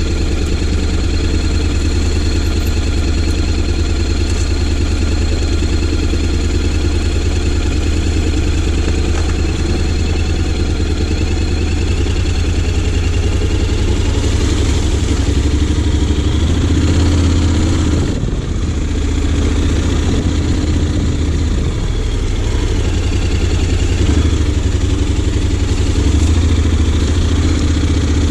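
Honda X-ADV 750's parallel-twin engine running at low, fairly steady revs, with a brief dip in the sound about two-thirds through.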